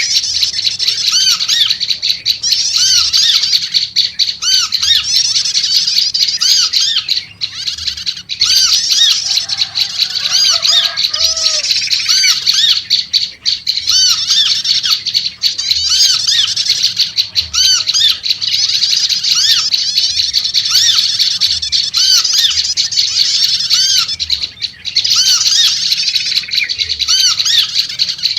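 Prenjak lumut chattering loudly and agitatedly: fast runs of repeated squeaky arching notes with short breaks. About ten seconds in, a few lower bird notes sound briefly under the chatter.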